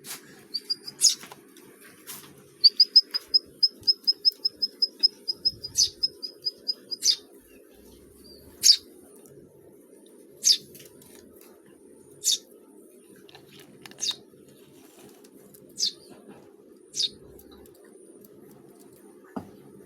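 Small birds chirping: a fast run of high, even chirps, about five a second for some four seconds, then single sharp, falling chirps every second and a half to two seconds.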